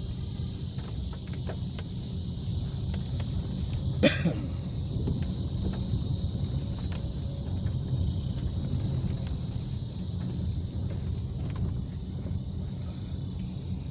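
Car driving on a rain-wet road: a steady low rumble of engine and road noise with an even hiss over it, and one sharp knock about four seconds in.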